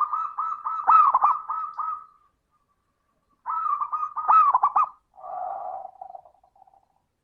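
Zebra dove (perkutut) cooing: two phrases of quick, evenly repeated notes, the second followed by a lower, rougher drawn-out note.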